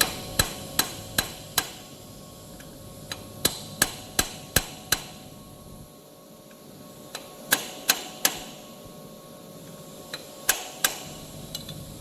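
Hammer striking metal in runs of four to six quick blows, about two or three a second, with short pauses between runs. The blows are tapping an FC210 bearing into place on a tissue-paper rewinder machine.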